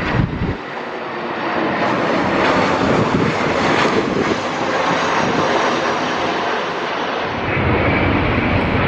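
Jet airliner's engines running as it comes in to land, a loud steady rushing noise.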